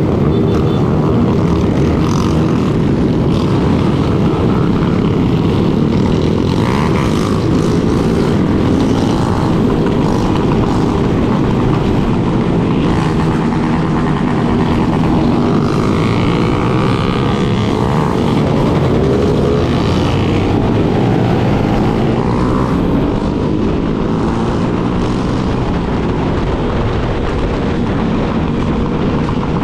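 Yamaha Lander 250's single-cylinder engine running under way, its note rising and falling with the throttle, mixed with heavy wind rush on the microphone and other motorcycles riding alongside.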